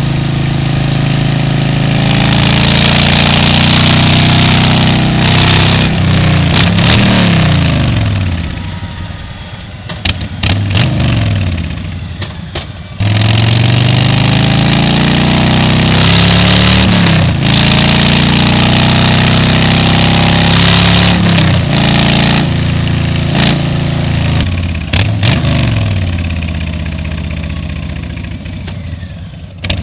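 Motorcycle engine and exhaust under way, heard from a helmet-mounted camera: the revs climb and drop through several gear changes, easing off about a third of the way in before picking up sharply again near the middle. Wind rushes over the microphone while it pulls hard.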